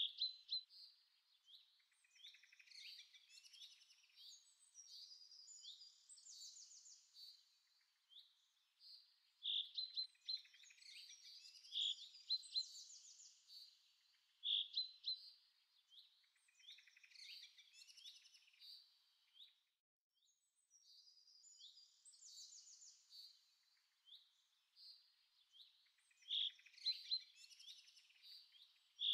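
Quiet birdsong: several birds chirping and trilling in short, high phrases that repeat every few seconds.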